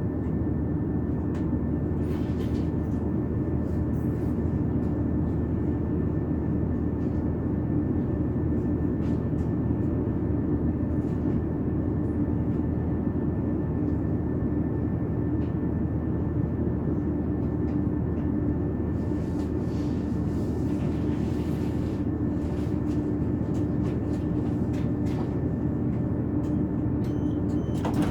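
Passenger train running at speed, heard inside the carriage: a steady rumble of wheels on track with a constant low drone from the drive underneath.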